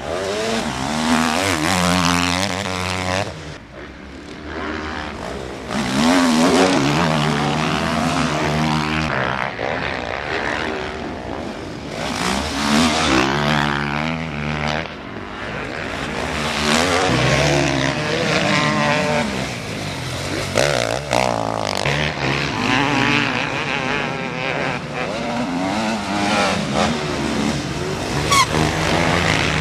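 Motocross motorcycle engines racing, several bikes overlapping, each revving up and down in pitch again and again as riders accelerate, shift and back off through the track.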